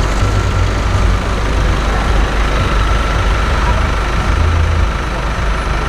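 Street traffic with a large vehicle's engine running steadily at low revs, a deep rumble under a constant road-noise hiss.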